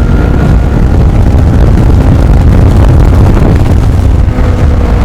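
Kawasaki Ninja motorcycle on the move: a loud, steady low rumble of engine and riding noise that cuts off suddenly at the end.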